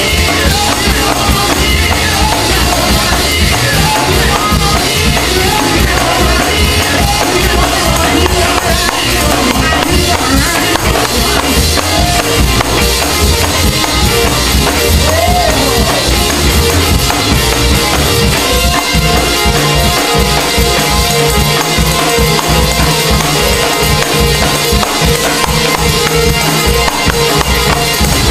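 Live gospel praise music: drums and tambourine keeping a steady beat under keyboard and singing.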